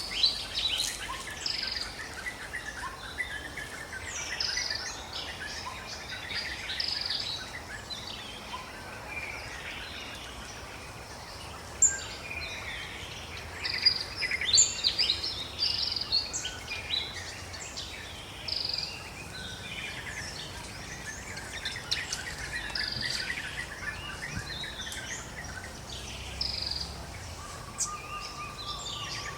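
Forest ambience: many birds chirping and calling in short, quick notes, scattered throughout over a steady background hiss.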